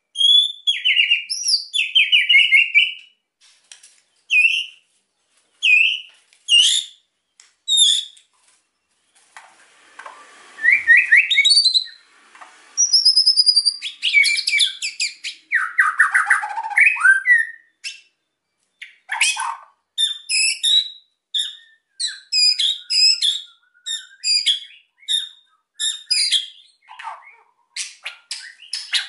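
White-rumped shama (murai batu) singing in an excited state: a varied string of short whistled phrases and pitch glides with brief pauses, a harsher rasping phrase partway through, and quick runs of clipped stuttering notes in the second half.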